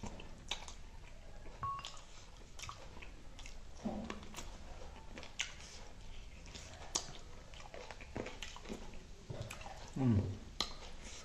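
Wet chewing and biting of saucy chicken wings, with frequent sharp lip smacks and mouth clicks. Two brief low voiced sounds from the eater, falling in pitch, the louder one near the end.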